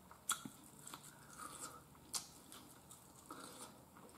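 Quiet close-up chewing of soft roasted potato, with wet mouth sounds and a few sharp lip-smacks.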